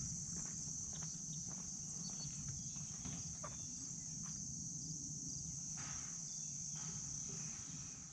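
Faint steady high-pitched chirring, like insects, with scattered soft ticks and a low rumble underneath.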